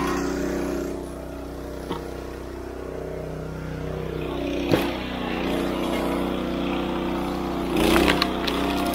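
Small gasoline engine of a log splitter running steadily. Its pitch dips and climbs back around the middle, with a single sharp crack about halfway and a short clatter of knocks near the end.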